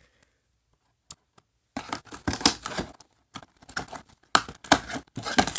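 Toy packaging being handled and torn open by hand: a few light ticks, then from about two seconds in a dense run of irregular crinkling, tearing and clicking.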